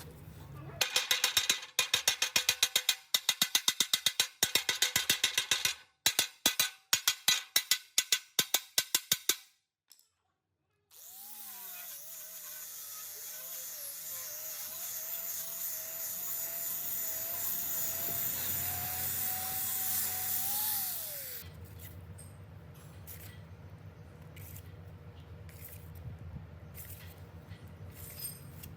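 Workshop tool work on metal. It opens with rapid sharp strikes, several a second, for about nine seconds. After a short pause a power tool runs for about ten seconds with a slightly wavering whine, then cuts off, leaving a low hum and a few scattered clicks.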